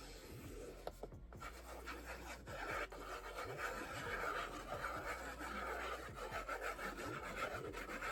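Gluing paper to cardstock by hand: a run of quick, scratchy rubbing strokes on paper, starting about a second in.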